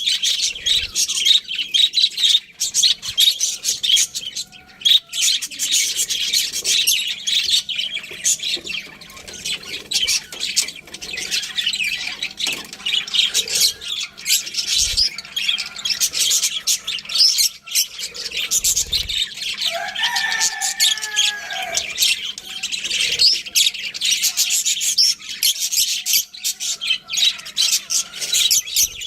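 Budgerigars chattering in a continuous stream of rapid, high-pitched chirps and warbles, with a lower two-part gliding call about twenty seconds in.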